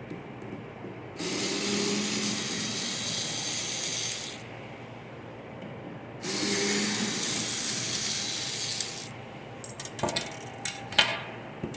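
Cordless drill-driver running in two bursts of about three seconds each, backing out the two screws under the dryer's side panel, each starting with a brief whine as the motor spins up. Several sharp metallic clicks follow near the end as the screws and panel are handled.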